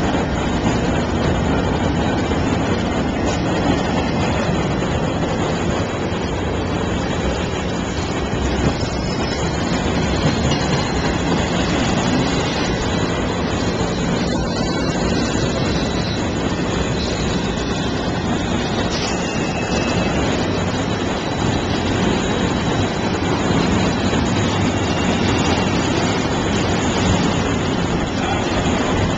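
Freight train of empty intermodal cars rolling past, a steady, loud wheel-and-rail noise with no breaks.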